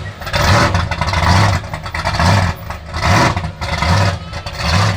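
Muscle car engine with a big, throaty cam, running with an uneven lope that surges about once a second.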